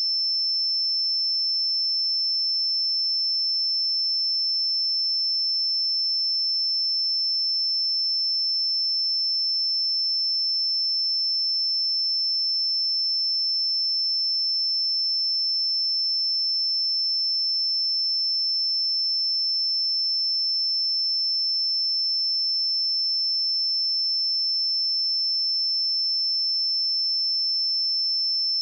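A pure sine-wave test tone at 5314 Hz, held steady at one high pitch and one level.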